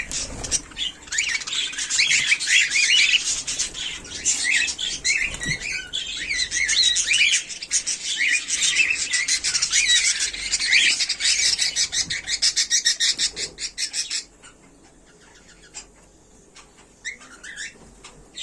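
Cockatiel chirping and calling in a rapid, continuous stream of short high chirps. It cuts off suddenly about fourteen seconds in, and one brief chirp follows near the end.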